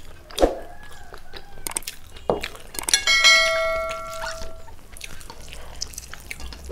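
A few light knocks, then a piece of metal tableware struck about three seconds in, ringing with a clear tone that fades over about a second and a half.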